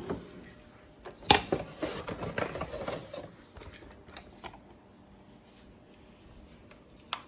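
A sharp click, then about two seconds of crinkling and clicking, then a few faint clicks: small objects and packaging being handled.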